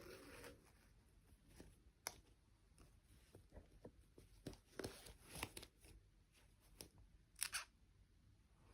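Faint handling sounds of a toy and its packaging: light clicks and short rustles, with a sharp click about two seconds in and a louder rustle near the end.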